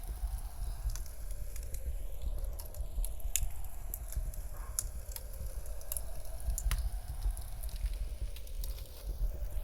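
Wood fire crackling in a fireplace, with scattered sharp pops over a low rumble. A faint howling wind rises and falls slowly behind it.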